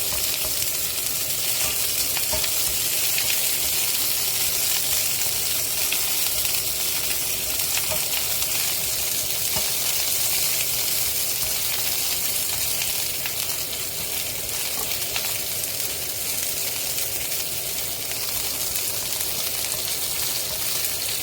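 Sliced onion sizzling steadily in hot olive oil in a pan, with occasional light clicks of stirring.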